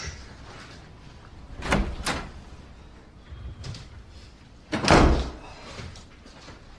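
A door being handled: two short knocks about two seconds in, then a louder, heavier thud about five seconds in, as of a door shutting.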